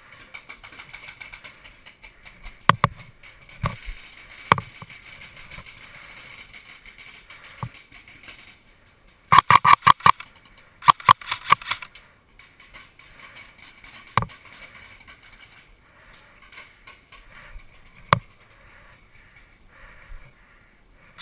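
Airsoft guns firing: scattered single shots, and about halfway through two quick full-auto bursts of about a second each.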